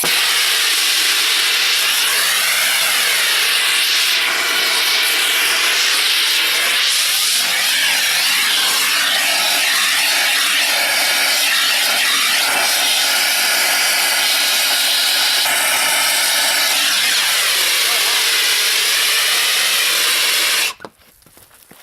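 Blow torch flame hissing steadily as it heats a stuck tractor wheel nut to free it, its tone sweeping slowly as the flame moves about; it shuts off suddenly about a second before the end.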